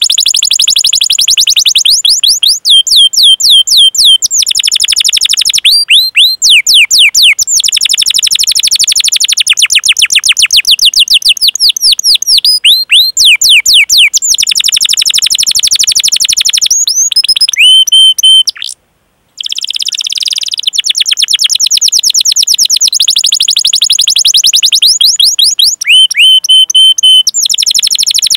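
Domestic canary singing long rolled trills of very fast repeated whistled notes, mixed with sweeping chirp calls ('cuit cuit'). The song breaks off for a moment about two-thirds through, then goes on.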